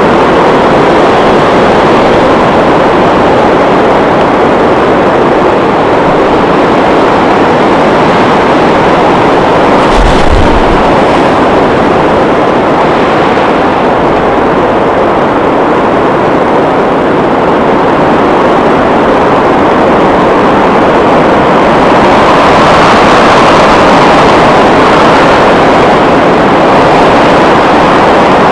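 Gusting blizzard wind blowing loud and steady across the microphone. A low buffeting thump comes about ten seconds in, and a gust swells louder about three quarters of the way through.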